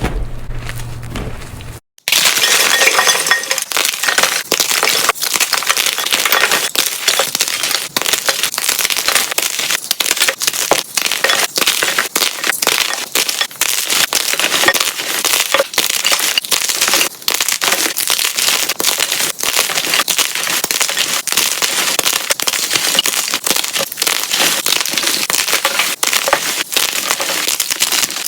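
Blocks of gym chalk being crushed, a dense run of crunching and crackling sped up to double speed. The first two seconds are quieter with a low hum, then a sudden cut brings in loud, continuous crunching.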